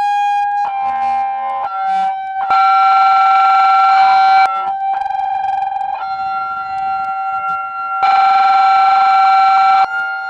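About a hundred megaphones blaring together at a glass to try to shatter it: a loud, distorted, steady high tone held throughout, with other tones and siren-like sounds cutting abruptly in and out. Two stretches are louder, one about a third of the way in and one near the end.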